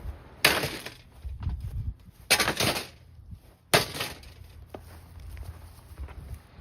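Three loud crashes from a Holmes box fan: one about half a second in, a longer rattling one a little past two seconds, and a sharp one near four seconds.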